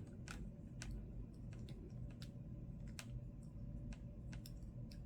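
Faint, irregular light clicks and taps of a small plastic car air-freshener vent clip being handled and fiddled with.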